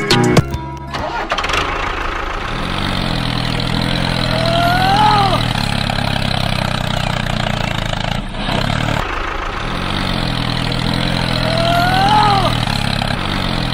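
Tractor engine running steadily, with a curved squeal coming round every seven seconds or so. About eight seconds in it cuts out briefly and builds up again as if restarting.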